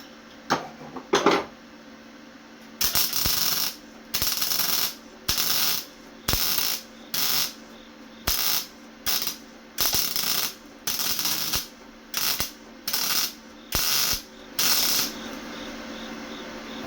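A Lincoln MIG welder laying short stitch welds on car-body sheet steel. It makes about fourteen separate bursts of crackling arc, each under a second long, after two sharp knocks near the start. The welder blames the poor welds on a bad contact tip.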